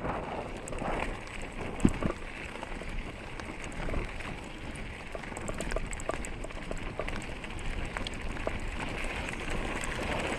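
Mountain bike riding over a rough forest trail: steady tyre noise on the dirt with frequent clicks and rattles from the bike, and a sharp knock about two seconds in.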